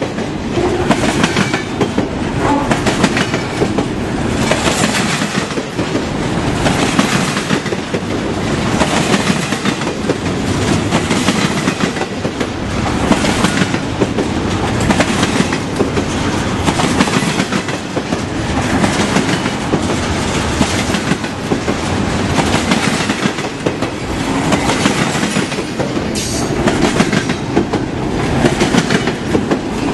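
Train cars rolling past close by, wheels clacking over rail joints with a clatter repeating about every two seconds over a steady rumble.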